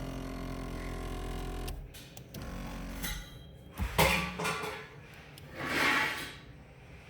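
A steady mechanical hum cuts off about two seconds in, followed by a few clunks and knocks and a short rushing noise near the end.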